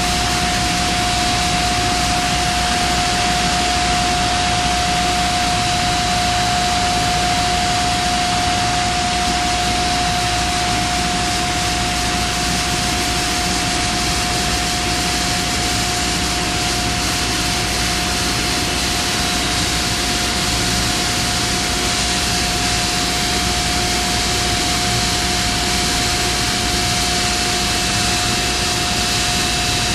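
Steady mechanical roar of industrial plant machinery, with a constant mid-pitched tone running through it.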